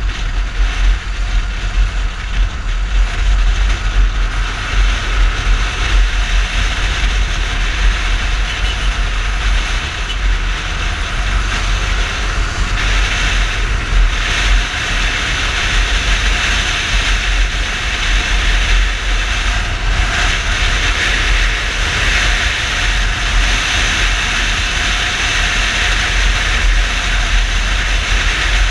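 Yamaha Fazer 250 motorcycle riding through traffic: the engine and road noise run steadily under heavy wind rushing over the microphone, with a deep buffeting rumble.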